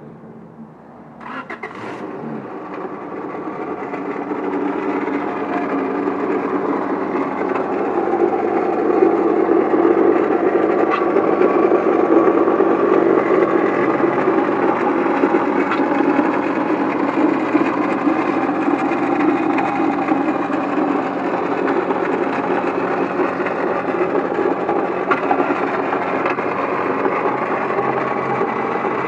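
1997 Honda Accord engine running with a loud rattle and grinding from the pulley side, coming in about a second in and growing louder over the first several seconds before holding steady. The noise is the water pump, whose bearings have probably gone bad.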